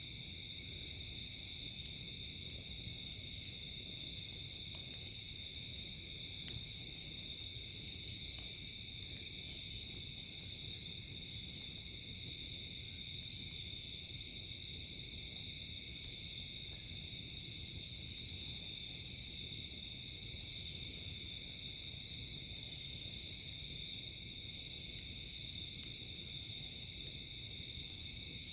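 Steady chorus of crickets and other insects, a constant high buzz, with a higher pulsing call that comes and goes every few seconds. A low steady hiss and an occasional faint click lie underneath.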